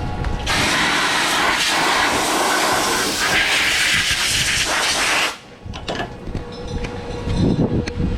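Compressed-air blow gun blasting chips off a freshly drilled steel plate: a loud, steady hiss for about five seconds that cuts off suddenly, followed by a few quieter knocks.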